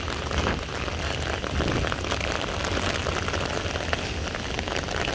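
Heavy rain falling, a steady hiss full of small drop impacts, with a low rumble underneath.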